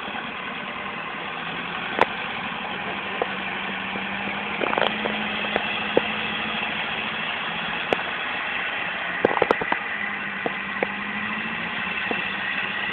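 Truck engine running steadily at an even, low speed, with a few sharp clicks or knocks scattered through it.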